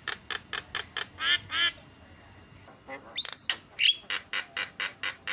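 Javan myna (jalak kebo) calling: a fast run of harsh chattering notes, about four a second, broken by a rising-and-falling whistle about three seconds in and a short whistle just after, then more harsh notes.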